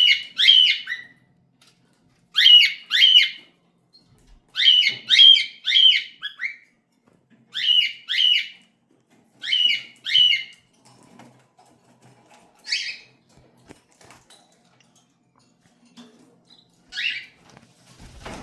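Cockatiel calling: harsh, downward-sweeping squawks in quick runs of two or three, repeated every two seconds or so, then two single calls near the end.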